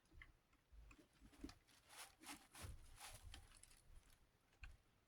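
Faint, scattered small clicks, taps and light rustling from hands working on a desk fan's oscillation mechanism, a dozen or so quiet knocks spread over a few seconds.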